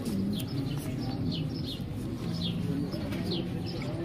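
Small birds chirping over and over: short high chirps that drop in pitch, about two a second, over a low murmur of voices.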